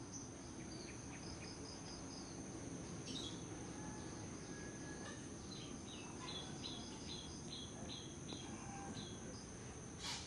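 Faint outdoor ambience: a small bird chirps in quick runs of short notes over a steady high whine and a low background rumble. There is a short sharp click near the end.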